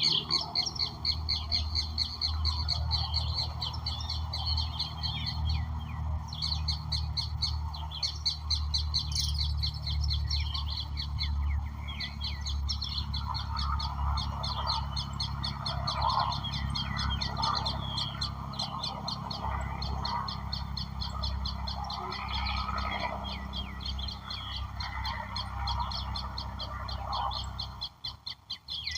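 Several wild birds calling at once, with a fast, rapidly repeated high chirping that pauses briefly twice and other calls at a lower pitch, over a low steady rumble.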